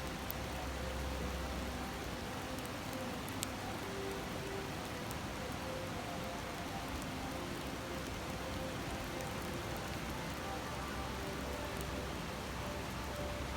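A river's steady rushing murmur, with a few sharp pops and crackles from a wood campfire, the clearest about three and a half seconds in.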